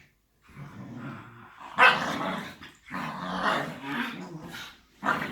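Dogs growling and barking in play, a Shiba Inu and a Bernese mountain dog puppy wrestling. It comes as a series of rough bursts, the loudest breaking out about two seconds in and a short sharp one near the end.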